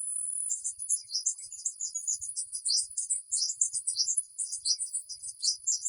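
Rapid, high-pitched chirping of small birds, many notes overlapping. It follows a steady high buzz, like an insect drone, that stops about half a second in.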